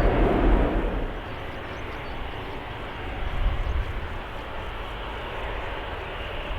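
Aircraft engine noise: loud for the first second, then dropping to a steadier, quieter rush.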